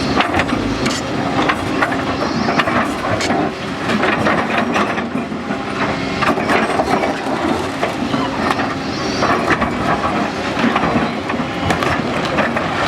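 Irregular knocks and clattering over a steady background noise.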